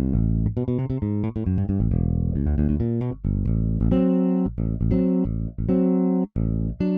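Toontrack EZBass virtual electric bass playing a modern funk MIDI groove on its own: short plucked notes in a syncopated line, moving from low notes up to a higher, repeated figure about four seconds in.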